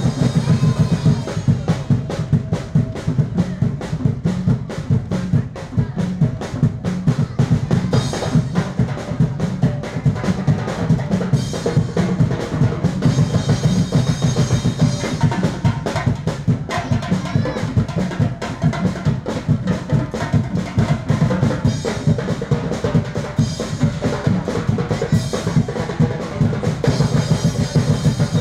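Drums played in a fast, dense rhythm, with higher metallic ringing joining in now and then.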